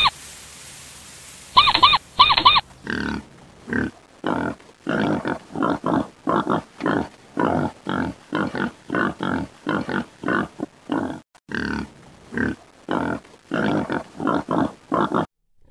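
Animal calls: two pairs of short, high pitched chirps, then a long run of short, rough calls at about two a second that stops shortly before the end.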